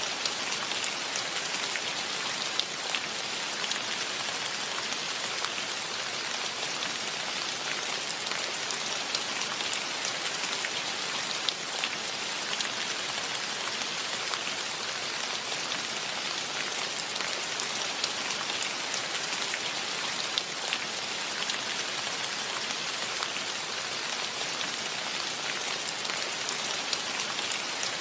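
Steady rain falling, a dense even hiss with scattered individual drops ticking on surfaces.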